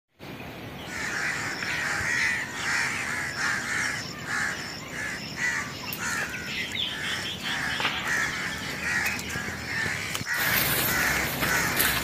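A bird calling over and over outdoors, a harsh call about twice a second. A louder rushing noise comes in about ten seconds in.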